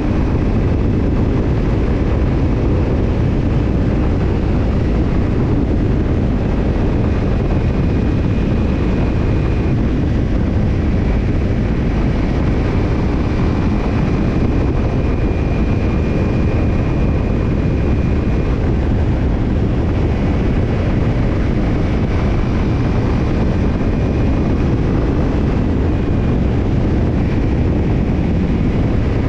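Kawasaki Ninja 250's parallel-twin engine running steadily through a BEET Nassert Evolution Type II titanium slip-on muffler, with no revving. A deep, even exhaust note and a rush of wind and road noise, with a faint high whine that comes and goes.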